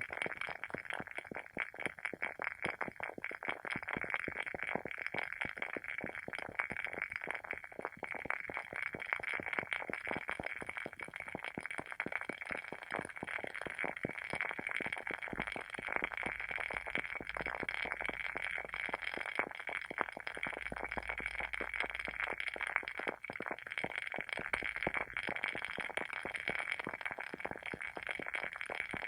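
Burning WoodWick candle's wooden wick crackling steadily, a dense stream of small rapid pops.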